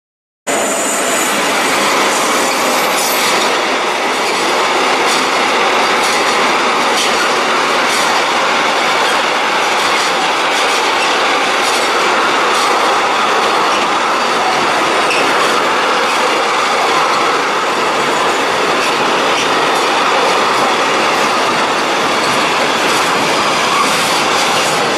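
A train passing through a station at speed: a steady rush of wheels on rail, with wheel clicks over the rail joints and a high squeal near the start.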